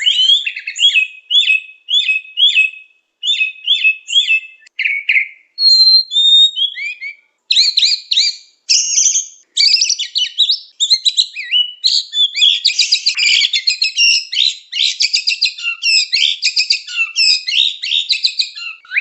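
White-rumped shama (murai batu) in loud, continuous song. It opens with a string of short, repeated whistled phrases, and from about seven seconds in breaks into a faster, denser stream of varied whistles and rapid trills.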